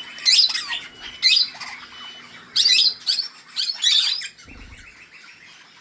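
Caged parakeets calling: a run of loud, shrill squawks with falling sweeps in the first four seconds, then quieter calls near the end.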